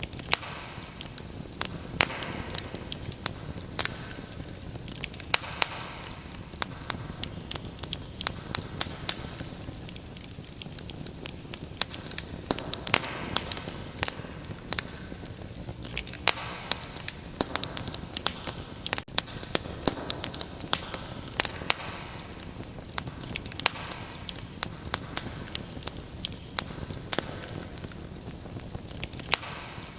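Wood fire crackling and popping in a fireplace: frequent sharp irregular snaps, several a second, over a soft low rumble of burning.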